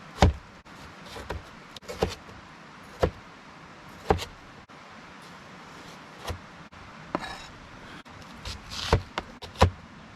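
A series of sharp knocks and clunks at irregular spacing, roughly one to two seconds apart, from things being handled and set down at a camp prep table with a cooler and cutting board, with a brief scrape or rustle near the middle.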